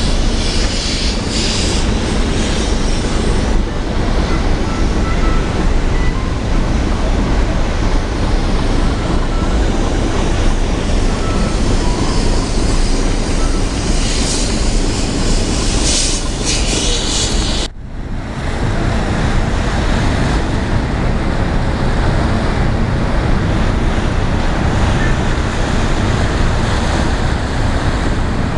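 Steady rush of wind buffeting the microphone over the wash of sea water along a moving cruise ship, with gusty hiss in the first half. The sound cuts out abruptly about two-thirds of the way through and resumes at once.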